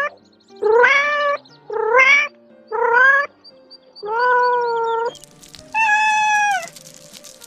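An animal giving a series of high, drawn-out cries about once a second, most rising in pitch. The fourth cry is longer and held level, and the last is higher-pitched.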